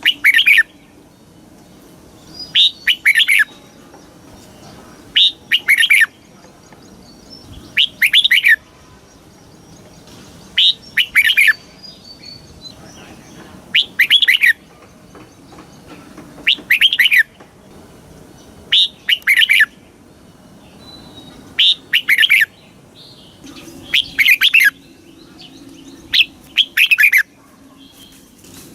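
Red-whiskered bulbul singing short, loud phrases of a few quick notes, repeated every two to three seconds.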